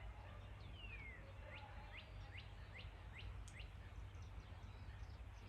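A bird singing: one whistled note sliding down in pitch, then a run of six short rising notes about 0.4 seconds apart. A steady low rumble lies underneath.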